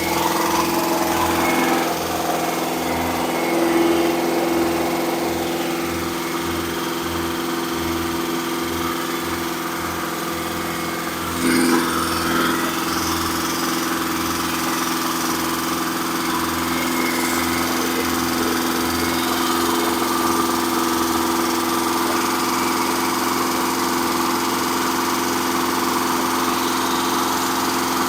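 Engine running steadily during a camshaft break-in run, with a brief rise in level about eleven and a half seconds in.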